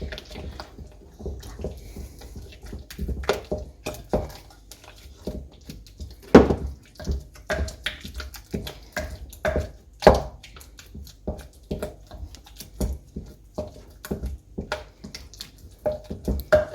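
A spoon stirring thick, part-cooked maize-meal porridge (sadza) in a bowl, with irregular knocks and scrapes against the bowl, two of them louder about six and ten seconds in.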